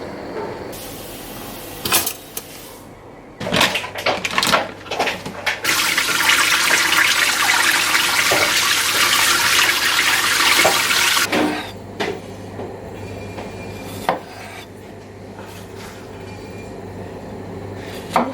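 Household handling sounds: a few knocks and clinks, then water running steadily for about five seconds before it stops, then a couple more single knocks.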